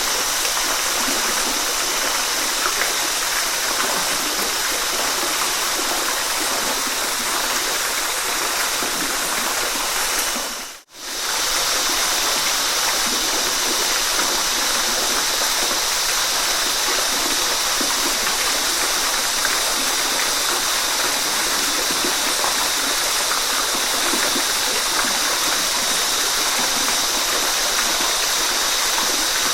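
Steady rushing of a waterfall, a looped recorded sound effect. About eleven seconds in it fades out to a split-second gap and comes straight back, the seam where the recording loops.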